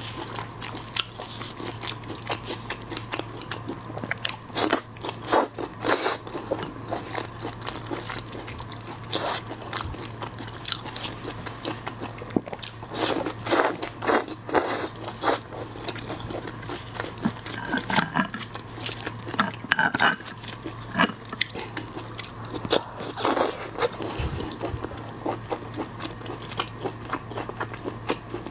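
Close-up eating sounds of shrimp being bitten and chewed: crunching bites, loudest in several bursts, between wet chewing. A steady low hum runs underneath.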